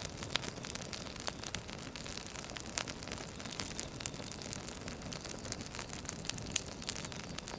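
Wood fire crackling: irregular sharp pops and snaps over a steady soft hiss, with one louder pop about six and a half seconds in.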